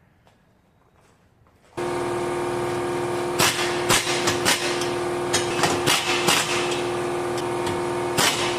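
An impact wrench starts suddenly about two seconds in and hammers steadily, with sharp knocks and clanks among it, as exhaust bolts are driven home.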